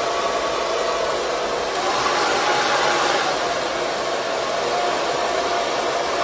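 2200-watt AC-motor ionic hair dryer running steadily: a rush of blown air with a faint whine from the motor and fan.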